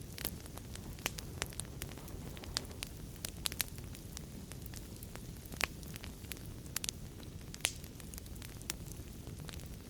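Wood fire burning in a fireplace, a steady low rumble of flame with irregular sharp crackles and pops.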